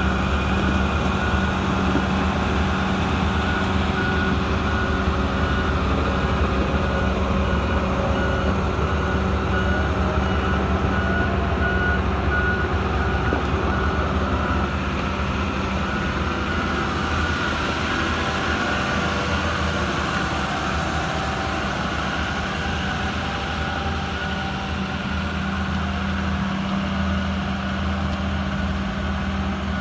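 Doosan DX excavator's diesel engine running steadily, with its warning alarm sounding a repeating high beep through the first half, stopping about halfway through and returning near the end.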